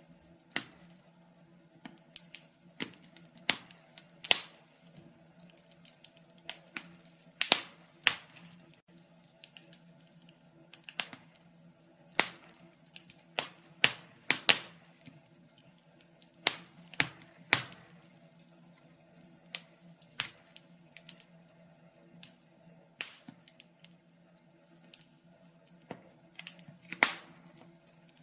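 Wood fire in a fireplace crackling, with sharp irregular pops and snaps of varying loudness over a faint steady hum.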